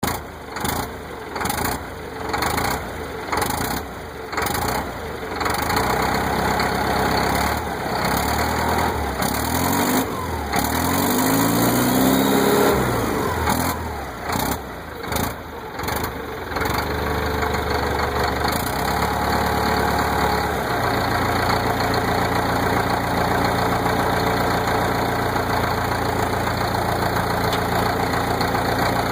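Caterpillar 955 track loader's diesel engine cranking over with a rhythmic chug for several seconds, then catching and revving up and down, and settling into a steady idle for the second half.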